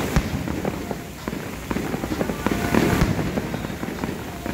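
Fireworks display: aerial shells bursting in a dense run of sharp pops and crackles, heaviest about two and a half to three seconds in.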